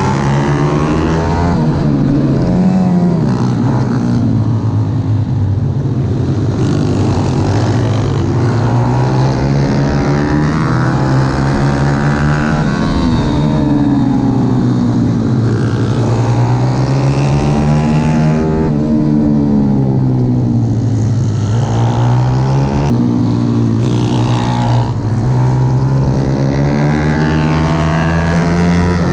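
Pit bike's single-cylinder engine at racing speed, its pitch climbing and dropping over and over with throttle and gear changes.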